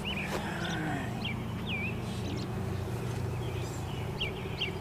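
Small birds chirping, short rising-and-falling notes repeated every second or so, over a steady low hum.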